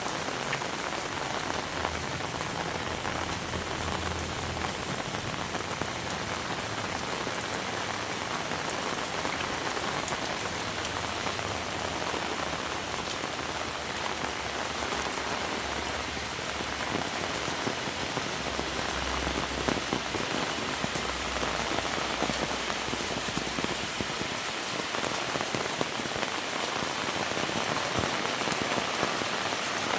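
Heavy rain falling steadily, growing a little louder in the last few seconds.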